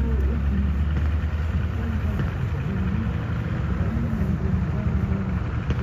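KV-1 heavy tank's V12 diesel engine running steadily, a low, even rumble.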